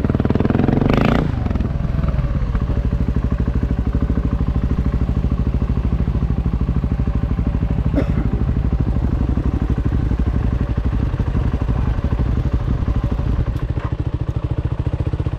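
Motorcycle engine running steadily, its rapid firing pulses filling the low end, with a brief louder noisy burst about a second in and a single sharp click midway.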